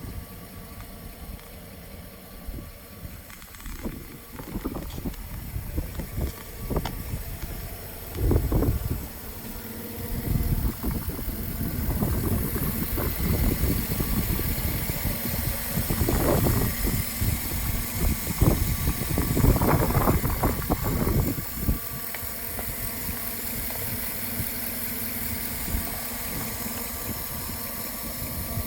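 A vehicle engine running, likely the Avalanche's V8, with wind buffeting the microphone; the low rumbling comes in irregular surges, heaviest from about eight to twenty-two seconds in.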